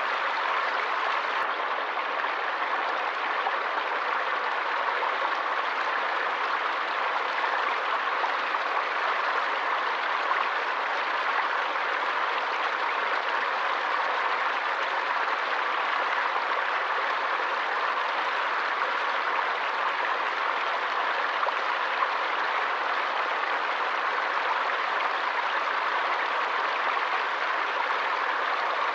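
A forest stream running steadily: an even rush of water.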